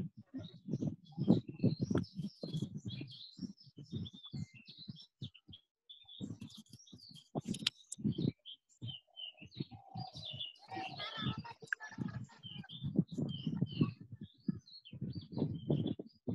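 Small birds chirping again and again, with intermittent low muffled sounds underneath.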